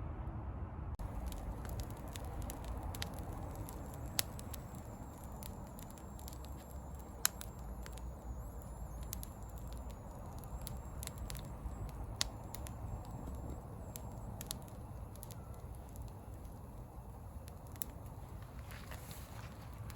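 Wood bonfire crackling, with sharp pops every few seconds over a steady low rumble.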